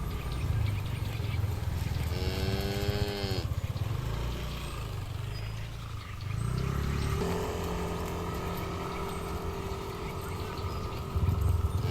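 Cattle mooing: one moo a little over a second long about two seconds in, its pitch dropping at the end, over a low rumble. From about halfway a steady droning tone runs on.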